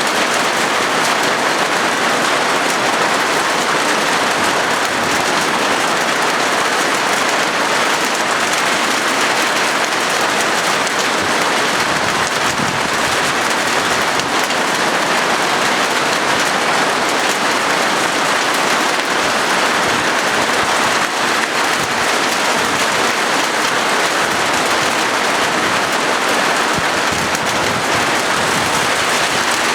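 Rain falling steadily on a corrugated galvanized-iron (zinc) roof, a dense, even patter with no letup.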